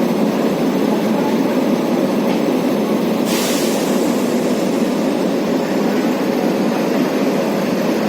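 Passenger train rolling past at a steady level, a continuous rumble of wheels on track. A brief hiss comes about three seconds in.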